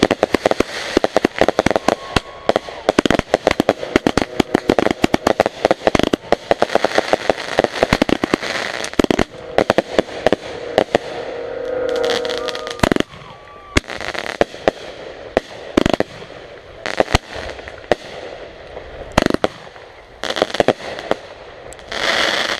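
Backyard consumer fireworks going off: a long, fast run of cracks and bangs for about the first thirteen seconds, then separate loud reports every second or two.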